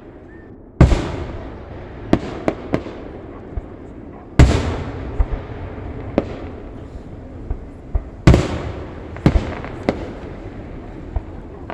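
Aerial fireworks shells bursting: three big booms about four seconds apart, each trailing off slowly, with smaller sharp cracks scattered between them.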